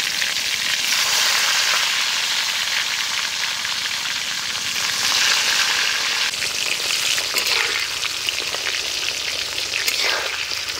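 Small whole brinjals, coated in salt and turmeric, sizzling steadily as they fry in hot oil in an iron kadai, with a spatula turning them near the end.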